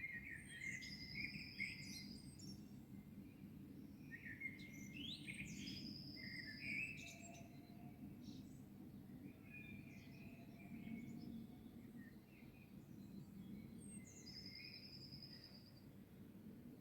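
Several songbirds singing in a dawn chorus over a steady low background rumble. A short, high, even trill recurs three times among the other phrases.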